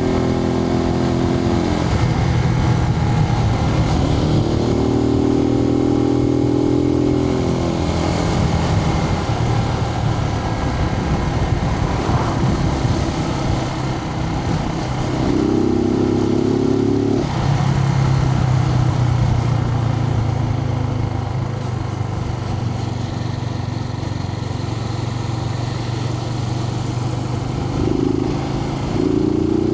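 Suzuki TU250X's air-cooled single-cylinder engine running on the road, heard from inside the rider's helmet with steady wind and road noise. The engine note shifts in pitch several times as the bike speeds up and eases off.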